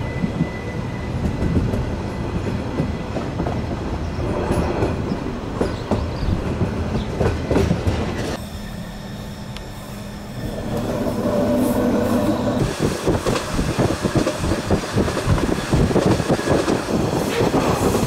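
Bernese Oberland Railway narrow-gauge electric train running on the rails, heard from inside the carriage: a steady rumble with frequent clicks and clatter of the wheels over rail joints and points. It quietens for a couple of seconds about halfway, then comes back louder with denser clatter.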